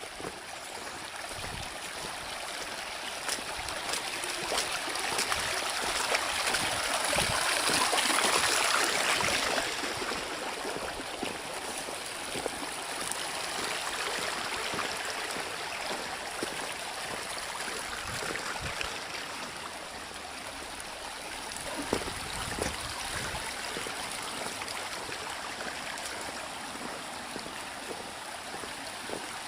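Rainwater runoff rushing and gurgling like a stream down an eroded dirt road, the morning after a heavy rain. It swells louder about a quarter of the way in, then eases.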